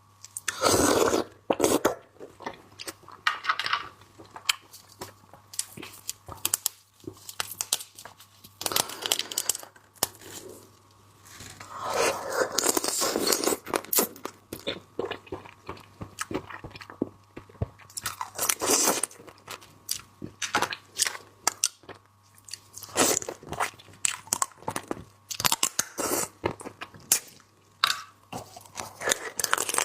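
Crab being eaten: irregular crunching of shell and chewing, with sharp cracks and louder bouts of crunching.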